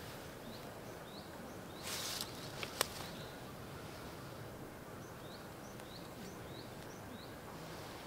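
A small bird giving short, high chirps in a series, about two a second: a few near the start, then a run of four or five in the second half. A brief rustle about two seconds in and a single sharp click just before three seconds in.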